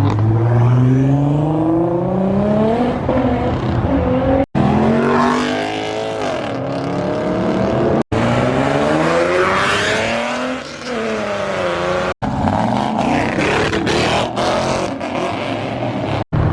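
Car engines accelerating hard away, the pitch climbing through the revs again and again as the gears change. It comes in several short takes, each broken off by an abrupt cut, with one car passing by near the middle.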